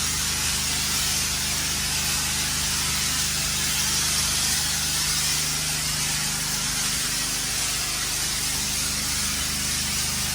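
High-pressure water spraying steadily from a pressure-washer hose through an open ball valve, rinsing a concrete garage floor, over the steady hum of the pressure washer's motor.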